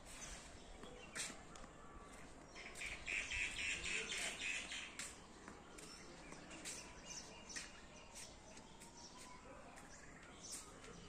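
Birds chirping, with a burst of fast, dense chattering about three seconds in that lasts around two seconds and is the loudest part.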